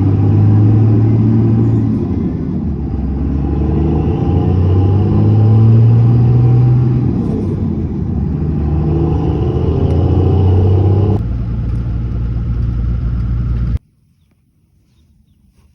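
Road vehicle driving, its engine running with a pitch that rises and falls as it speeds up and slows. The sound changes about 11 seconds in and cuts off abruptly near 14 seconds, leaving only faint background noise.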